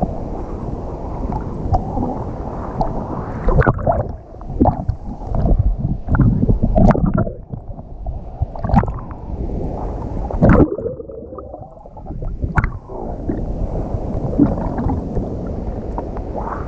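Rough sea water churning and splashing close around the microphone, with sudden sharp splashes and muffled, gurgling stretches.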